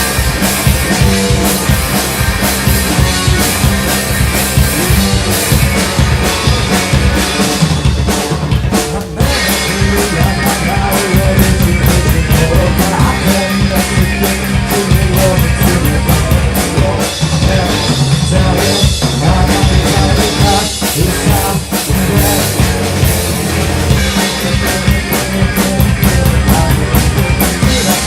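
Rock band playing loudly, with a full drum kit driving a steady beat.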